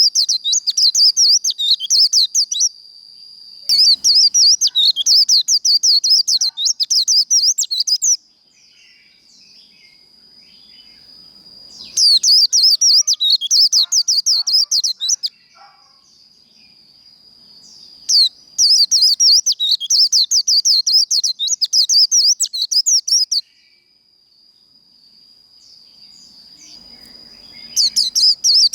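White-eye (vành khuyên) singing its fast, rambling 'líu' song in repeated bursts of rapid high twittering, each a few seconds long, with short pauses between. A thin steady high tone carries on through the pauses.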